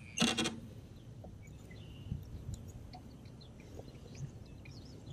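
Faint, scattered bird chirps over a quiet outdoor background, with a brief rattling clatter just after the start.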